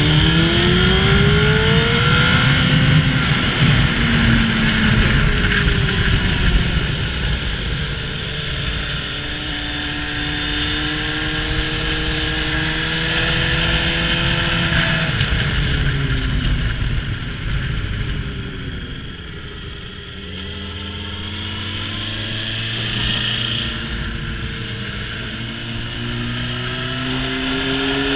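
Honda CBR954RR's inline-four engine heard from onboard at speed: revving up through the gears, running steadily, then dropping in pitch and quieter about two-thirds through before pulling up again near the end, over constant wind rush.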